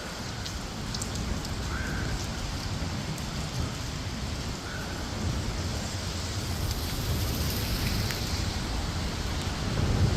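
Steady rain falling, with a low rumble underneath and a louder low swell near the end.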